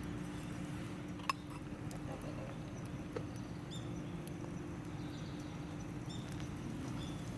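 Wood campfire crackling, with scattered small pops and one sharp pop about 1.3 seconds in, over a steady low hum.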